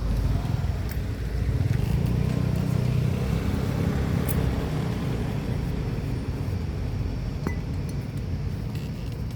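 A motor engine running steadily with a low rumble, with a few faint clinks over it.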